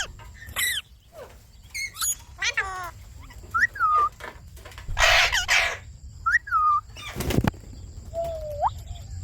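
Indian ringneck parrots calling in short chirps and squawks, several of them repeated whistle-like calls that rise and fall. About five seconds in comes a half-second rustling burst, and about seven seconds in a short sharp crackle, fitting wings flapping as the birds bathe.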